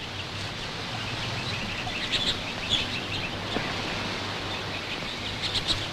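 Birds chirping: a few short, high chirps, clustered about two seconds in and again near the end, over a steady background hiss and low hum.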